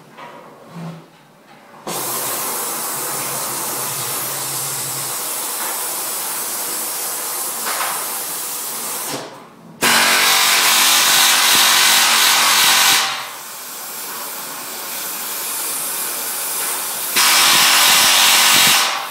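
A workshop power tool running in long stretches. It starts about two seconds in, stops briefly near the middle, then runs louder, eases off and comes up loud again near the end.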